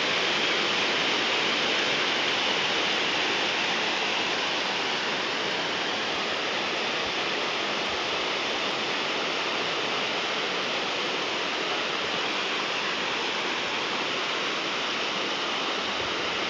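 Swift stream of a waterfall pouring down over rock: a steady, unbroken rush of falling water.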